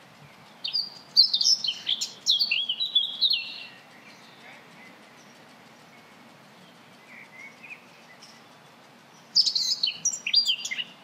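A songbird singing in two bursts of quick, high, chirping phrases, one about a second in and one near the end, with a few faint notes in between.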